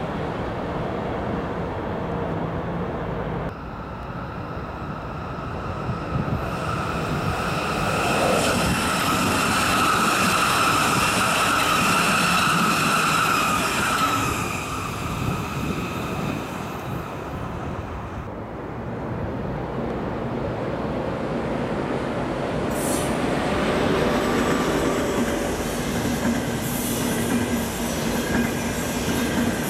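Passenger trains running past on a busy electrified main line. First the tail of an Intercity coach train rolls away. Then comes a long passage of rail noise with a steady high whine that fades out around the middle, and near the end an ICE high-speed train runs by with rising rail and wheel noise.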